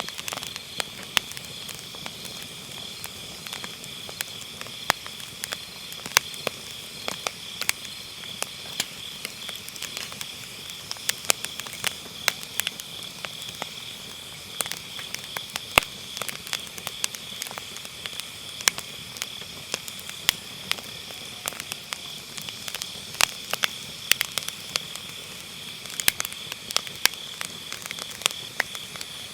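Firewood burning in a round fire pit, crackling with frequent sharp irregular pops. Under it, a steady high trilling of autumn grass insects.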